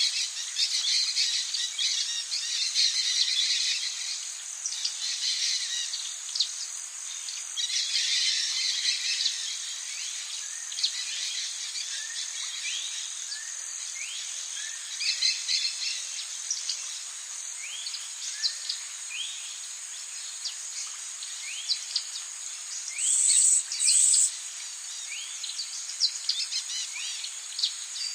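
Rainforest ambience: a steady high drone of insects with birds calling in short, repeated rising chirps. Two brief, loud, high-pitched buzzes come about three-quarters of the way through.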